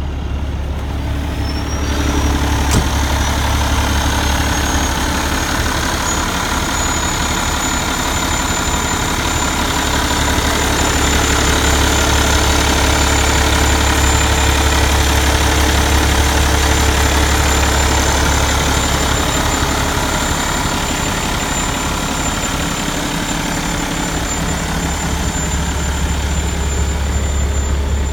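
Cummins ISX diesel engine of a Peterbilt 389 truck idling steadily just after starting, with a thin high whine that rises over the first several seconds and then holds steady. A single sharp click sounds about three seconds in.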